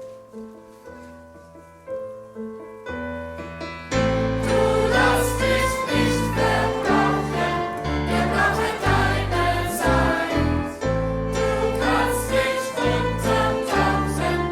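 Choir singing with a live band of strings, bass, percussion and keyboards. A few quiet held notes open, then about four seconds in the full ensemble and voices come in loudly together.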